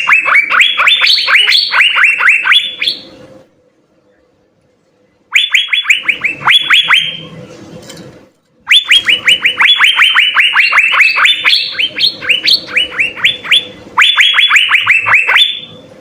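Asian fairy-bluebird (cucak biru) singing in full: fast runs of sharp, downward-sliding whistled notes, several a second, in three bursts separated by short pauses.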